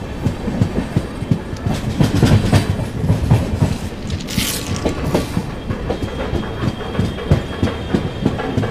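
Indian Railways passenger train running at speed, heard from a coach: steady wheel rumble with clickety-clack knocks over the rail joints, and a brief hiss about halfway through.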